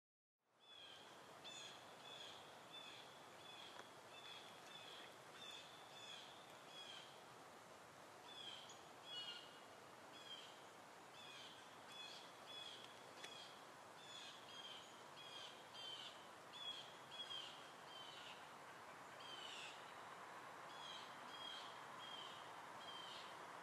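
A bird calling in short, high, repeated chirps, about two a second with a few brief pauses, over a faint steady outdoor hiss that fades in at the start.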